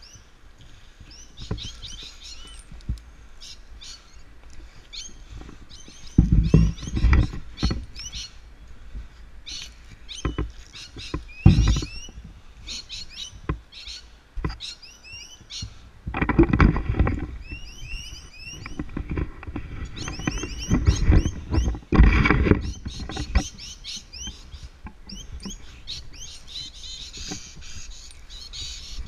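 Small birds chirping and twittering throughout, with several loud bursts of rubbing and thudding close to the microphone in the middle stretch, from the climber's rope and ascender being worked during the climb.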